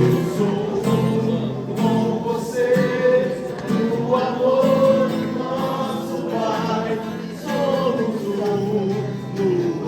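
Christian worship song: voices singing a slow melody over strummed acoustic guitar.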